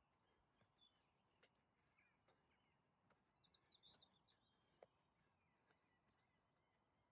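Near silence, with a few faint bird chirps about halfway through.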